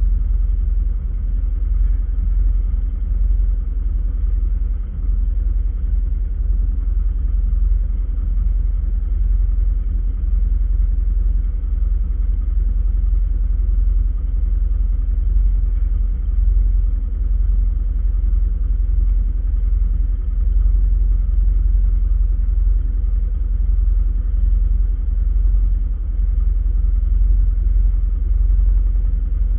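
Steady low rumble of a car driving, heard from inside the vehicle, with no breaks or distinct events.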